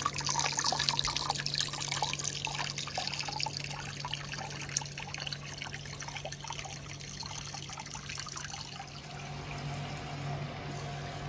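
Water trickling and splashing steadily, as hot-spring water running into a bath, with many small splashes in the first half, over a constant low hum.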